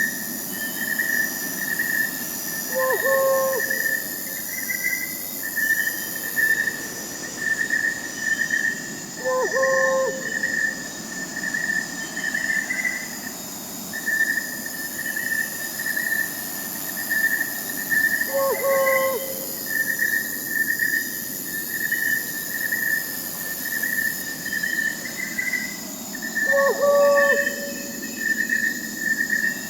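Crickets chirping in a steady pulsing trill over a high insect buzz, with a short owl hoot four times, about every eight seconds.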